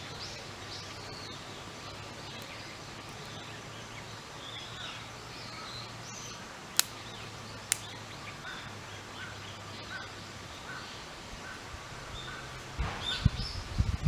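Small birds chirping now and then over a steady low hum. About seven seconds in come two sharp clicks a second apart, and near the end there are low knocks and rustling of handling.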